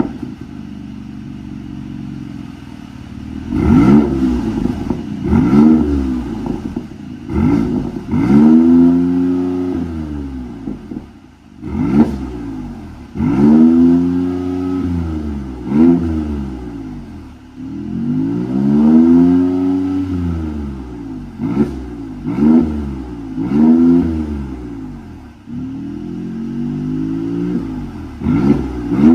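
Mercedes-AMG SLC43's twin-turbo V6 idling, then revved again and again through an aftermarket sport mid-pipe exhaust, each rev climbing and falling back, with sharp cracks as some revs drop off.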